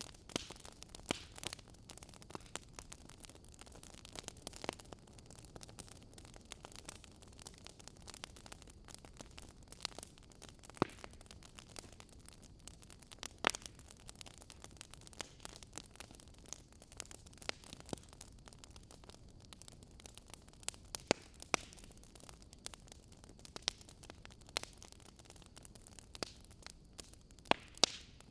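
Wood fire in a fireplace crackling, with irregular sharp pops over a low, steady hiss.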